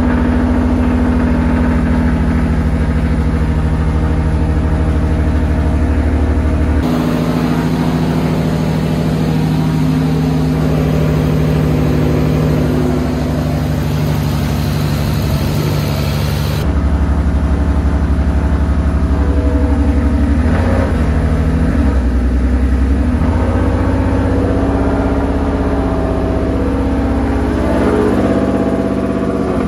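Freshly built turbocharged BMW M50/M52 inline-six running steadily at a fast idle of about 1,650 rpm on its first start. It has a misfire, which the builder traces to a plug that has fallen out.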